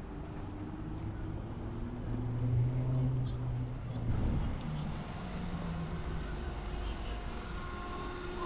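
Street traffic: a motor vehicle's engine running past, loudest about two to four seconds in, over a steady low rumble.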